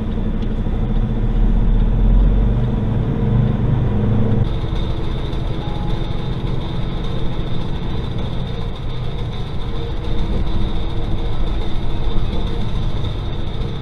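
Engine and road noise heard from inside a moving truck's cab. The sound changes abruptly about four and a half seconds in, with a steady high whine appearing.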